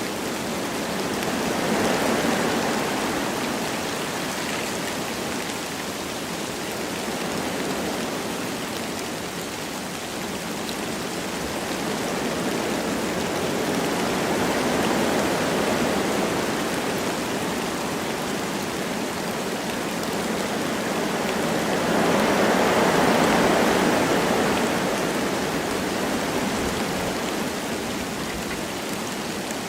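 Wind blowing through forest trees with light rain falling, a steady rushing hiss that swells in slow gusts, strongest about two seconds in, midway and around three-quarters of the way through.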